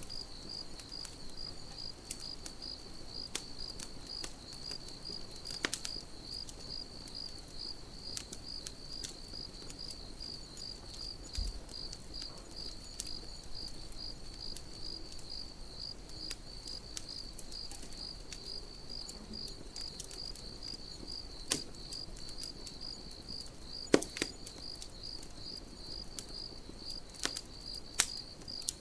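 Crickets chirping in a steady, even rhythm over a campfire crackling with scattered sharp pops; the loudest pop comes about 24 seconds in, with another near the end.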